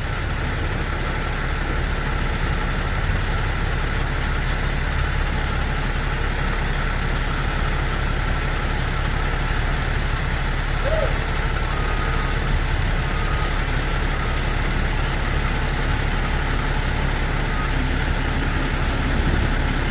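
Heavy truck engine idling with a steady low drone.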